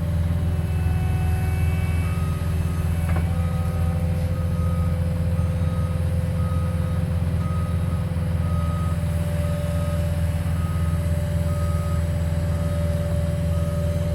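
Skid steer engine running steadily under load, with a backup alarm beeping repeatedly from about two seconds in. A single sharp click comes a little after the beeping starts.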